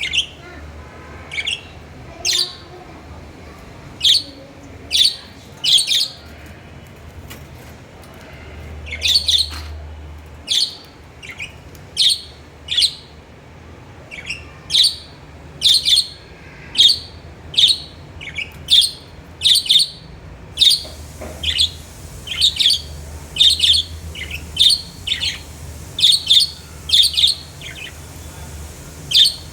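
Budgerigars chirping: short, sharp chirps repeated about once a second, coming faster in the second half.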